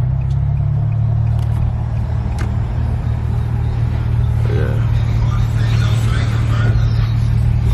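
2004 Infiniti G35's 3.5-litre VQ V6 engine running with a steady low drone.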